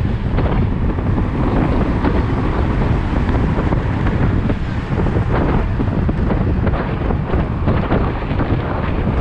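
Wind buffeting the microphone of a moving motorcycle, loud and steady with a heavy low rumble, mixed with the motorcycle's running noise.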